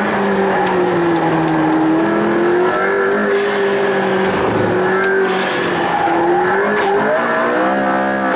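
Turbocharged car's engine and exhaust running at fairly steady revs, then climbing in pitch near the end.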